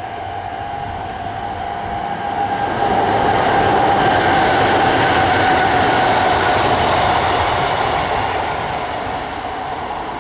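Express train passing over a level crossing, its running noise and the clatter of the wheels over the rail joints swelling about three seconds in and fading again near the end. Under it, the crossing warning bell rings steadily.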